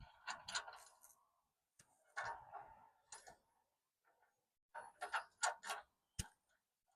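Scattered small metal clicks and clinks of bolts, washers and hand tools being handled while fitting a steel bumper, in loose groups with a short cluster about five seconds in and one sharper knock just after six seconds.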